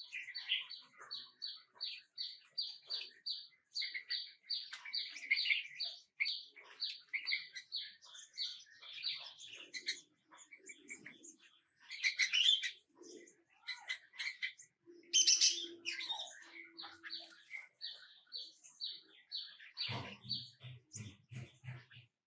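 Small birds chirping: a long run of short, repeated high chirps at about three a second, with a couple of louder, noisier bursts in the middle.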